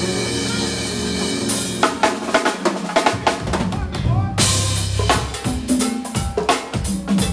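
Live drum kit playing fast snare and rimshot fills with bass drum over band chords. Held chords open it; the drumming comes in about a second and a half in, with a cymbal crash and a deep bass note near the middle.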